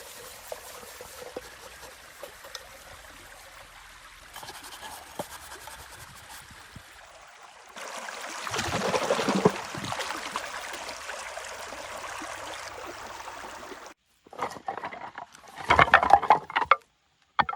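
Water trickling and splashing, louder from about eight seconds in, cutting off suddenly near the end, followed by a few short bursts of handling noise.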